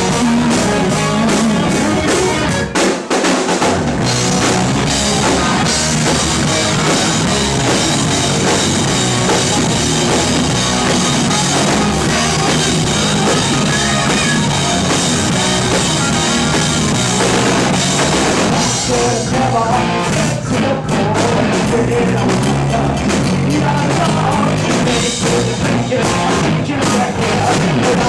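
A rock band playing live with drum kit, electric guitar and bass. The low end drops out briefly about three seconds in.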